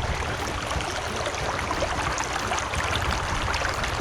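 River water flowing over rocks: a steady rush sprinkled with many small splashes and trickles.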